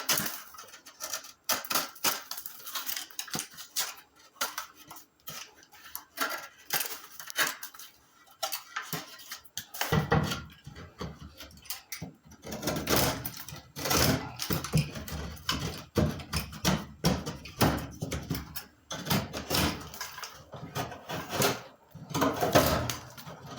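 Utility knife scraping and trimming the corners of a sheetrock patch, with irregular knocks and scrapes as the piece is handled and pushed into the wall opening to test the fit; the handling gets busier about ten seconds in.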